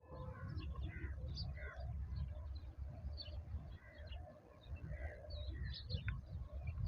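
Several small birds chirping and calling in short, scattered notes, over a steady low rumble.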